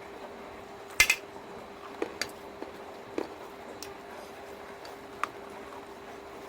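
Small sharp clicks of eating chicken feet at a table. The loudest is a quick double click about a second in, followed by a few single clicks spread over the next few seconds. A steady low hum runs underneath.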